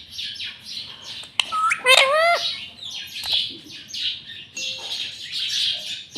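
Pet ringneck parakeet chattering in a string of short chirps and squeaks, with a louder gliding whistle-like call about two seconds in.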